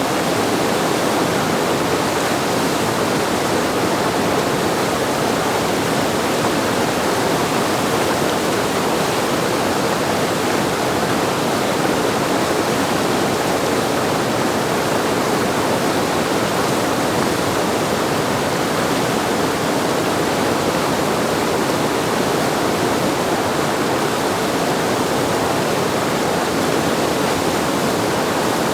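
Whitewater river running fast at high flow over a standing wave, a steady, unbroken rush of water.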